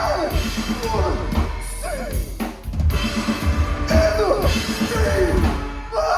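A live band playing loudly, driven by a busy drum kit with bass drum and snare, under sliding, swooping pitched sounds.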